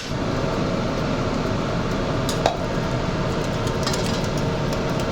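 Steady kitchen noise with two sharp clinks of a utensil or dish against cookware, one right at the start and one about two and a half seconds in.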